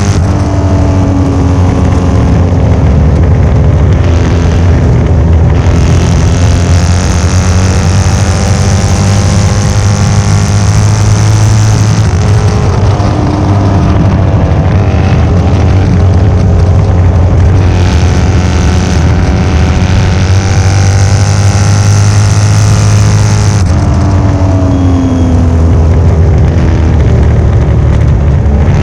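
1972 Norton 750 short-stroke parallel-twin racing engine running hard and loud under race conditions, its pitch rising and falling as it is revved and shifted.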